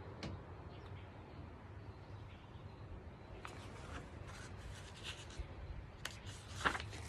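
Faint garden birdsong: scattered short chirps over a low steady background.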